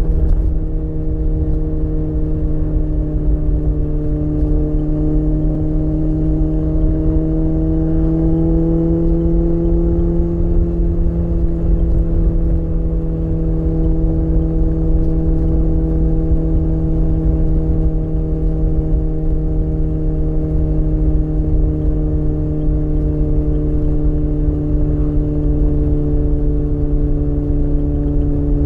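Suzuki Bandit 600's inline-four engine running at a steady cruise under way. Its pitch rises slightly over the first third, then slowly eases off.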